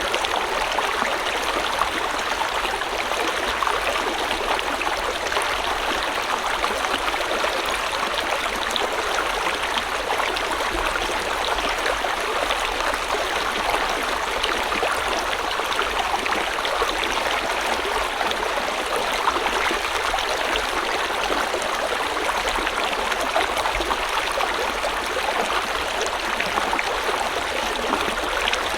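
River water flowing steadily over rocks, a continuous even rush with a fine splashing texture.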